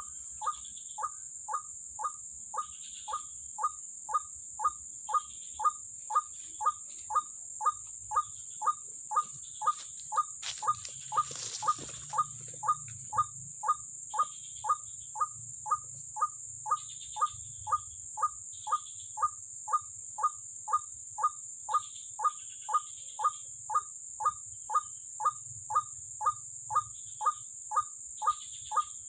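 White-breasted waterhen (ruak-ruak) call repeated monotonously, a short downward-sweeping note about twice a second at a very even pace, as used to lure the birds to a snare. A steady high insect-like whine runs underneath.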